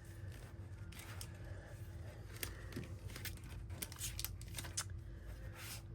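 Paper and craft materials being handled: scattered light rustles, clicks and taps. A steady low hum runs underneath.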